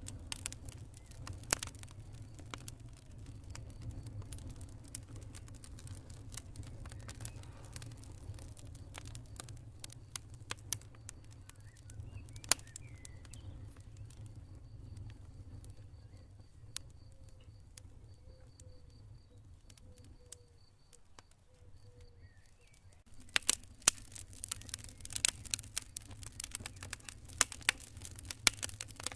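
Campfire burning with a low steady rumble and scattered sharp crackles and pops. The crackling thins out in the middle, then picks up again with a dense run of loud pops near the end.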